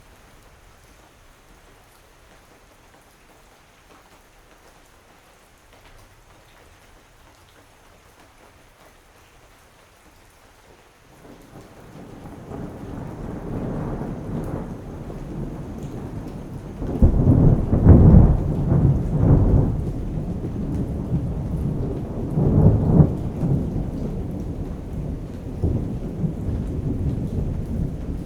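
Steady rain falling, then about a third of the way in a long roll of thunder builds up, loudest a little past the middle with a second surge soon after, and goes on rumbling in waves.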